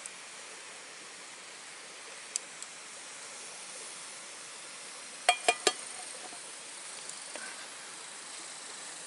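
A steady hissing background with one small click a couple of seconds in, then three sharp, quick clinks with a brief ring just past the middle.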